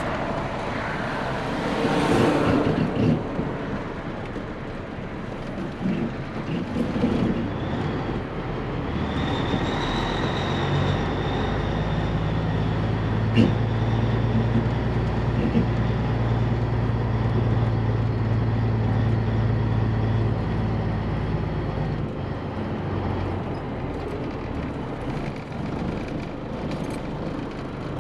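Cabover Peterbilt 362 semi truck's diesel engine running while driving, with a steady drone that strengthens from about nine seconds in and eases off again a little past twenty seconds.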